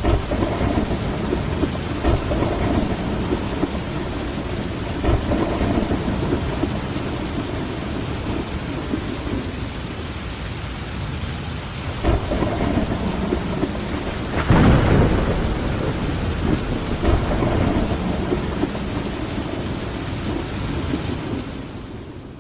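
Steady rain with rolling thunder rumbling under it, and a stronger thunderclap about two-thirds of the way through. The whole sound fades down near the end.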